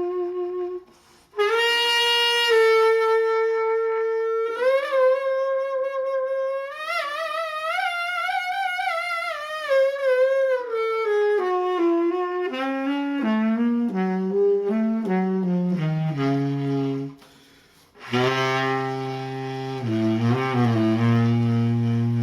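Solo saxophone playing a slow melodic phrase: long held notes with vibrato climb to a high peak, then step down note by note to a low held note, with two brief pauses for breath.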